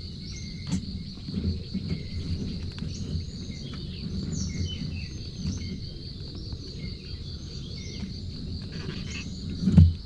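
Insects trilling steadily with a fast, even pulse, with short bird chirps scattered over it. Low rumbling handling noise runs underneath, and there is one loud thump near the end.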